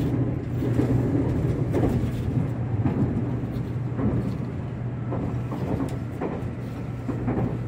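Interior running noise of the limited express Midori electric train under way: a steady low hum with rail noise from the moving carriage.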